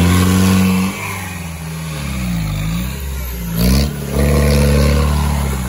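Off-road 4x4's engine revving under throttle: held at high revs, dropping about a second in, dipping and climbing again, with a short loud blast just past the middle before the revs are held high once more.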